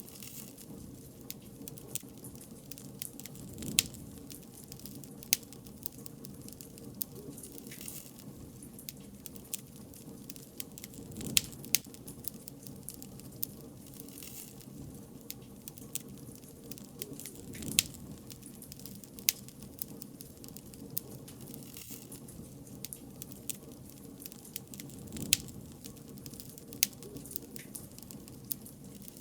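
Wood fire crackling, with irregular sharp pops over a low, steady rumble of burning.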